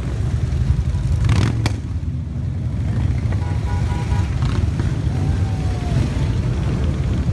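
Motorcycle engines rumbling at low revs, with two sharp cracks about a second and a half in.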